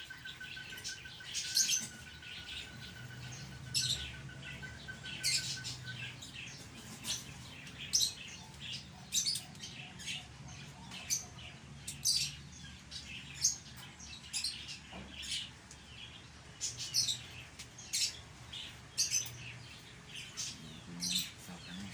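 Small birds chirping in the background, short high chirps coming irregularly, one or two a second. A faint steady high tone stops about six seconds in, over a low hum.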